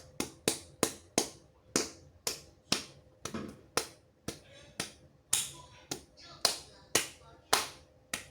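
A run of sharp percussive hits, roughly two a second, each ringing off briefly, in a steady rhythm.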